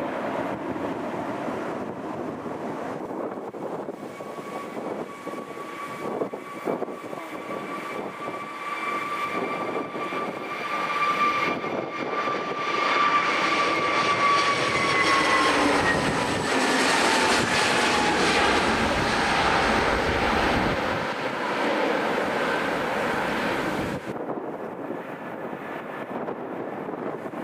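Airliner passing by: a steady engine whine over a rising roar, the whine dropping in pitch about sixteen seconds in as the aircraft goes past, loudest for several seconds, then fading away near the end.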